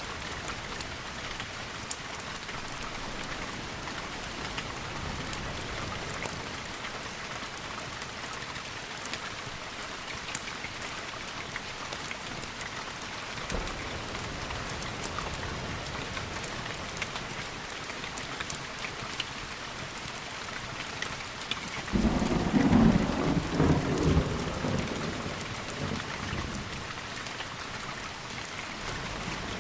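Steady rain, with a loud roll of thunder about two-thirds of the way through that starts suddenly, rumbles for a few seconds and fades away.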